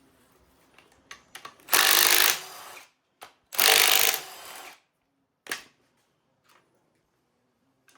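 A power tool run in two short bursts of under a second each, about two seconds apart, each winding down briefly after, with a few short clicks between, during the teardown of a V8 engine.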